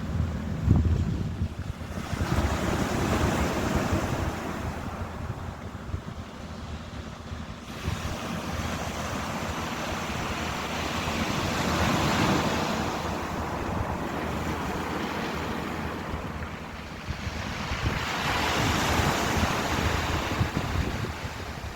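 Ocean waves breaking and washing up, surging louder three times several seconds apart, with wind rumbling on the microphone.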